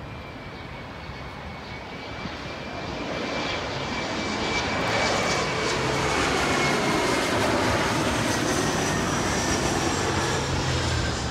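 Jet airliner passing low overhead on approach, its engine noise swelling from about three seconds in to a loud peak, with a thin high engine whine above it.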